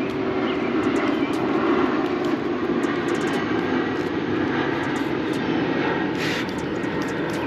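A motor running steadily and loudly, a rough, even engine noise with no change in speed.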